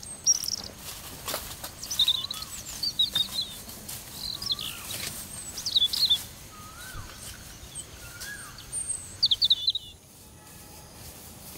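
Several birds chirping and singing: quick high chirps with a few lower whistled notes that rise and fall, thinning out near the end. A few short rustles, like footsteps in the grass, come in between.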